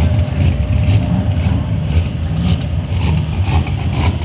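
Supercharged LS1 V8 (6-71 blower) in a Morris Commercial rat rod truck running with a heavy, uneven low rumble.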